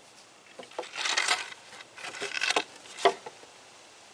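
Wooden boards knocking and scraping as a 2x4 is lifted and propped up under a timber ramp frame: a few light clicks, two spells of scraping, then one sharp wooden knock about three seconds in.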